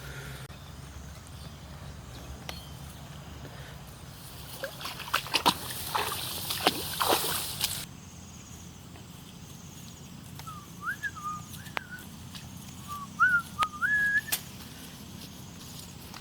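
Water splashing and sloshing with a few sharp knocks for several seconds, then a short run of whistled notes, each sliding up and down in pitch.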